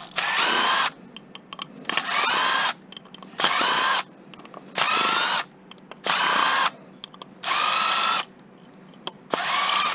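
Power drill driving out screws in seven short bursts of running, each about half a second to a second long, with a steady whine and brief pauses between.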